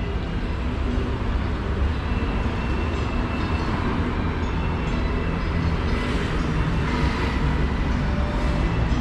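Steady low rumble of city street traffic, with a few faint high tones over it.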